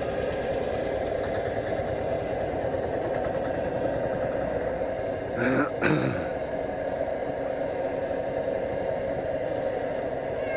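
Lanz Bulldog's single-cylinder two-stroke hot-bulb engine running steadily. About halfway through, a brief louder sound with a swooping pitch rises above it.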